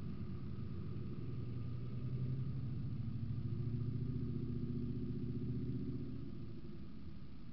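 Car engine and road noise picked up by a dashcam mic inside a moving car: a low rumble throughout, with an engine hum that swells about two seconds in and fades away about six seconds in.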